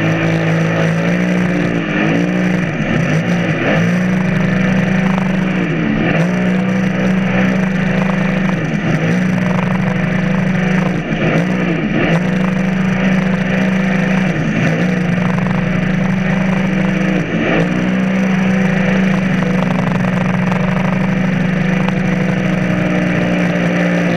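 Sea-Doo personal watercraft engine running at speed: a steady drone whose pitch briefly dips and recovers every second or so.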